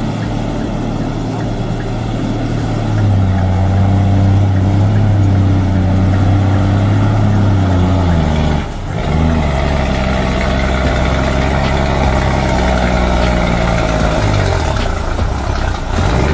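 A heavy vehicle engine running steadily. Its pitch shifts about three seconds in, drops briefly and picks up again near the middle, and shifts once more near the end.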